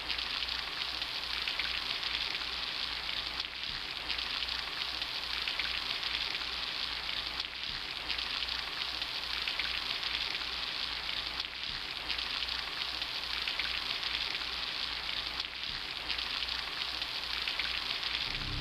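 Steady hissing noise, like spraying water or rain, with brief dips about every four seconds.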